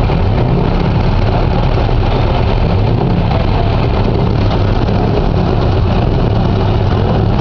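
Scania V8 diesel truck engine idling steadily, with a deep, even note.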